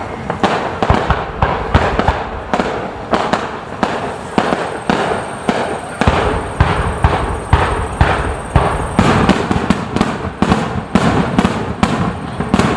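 Aerial fireworks bursting in rapid succession, several sharp bangs a second over continuous crackling.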